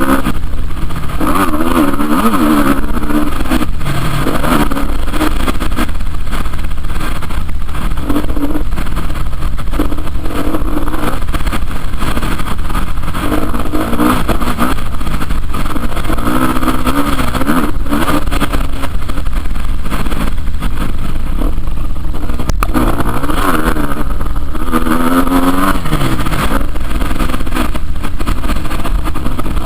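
Motocross motorcycle engines revving up and down again and again, the pitch rising and falling every second or two, over a steady deep rumble.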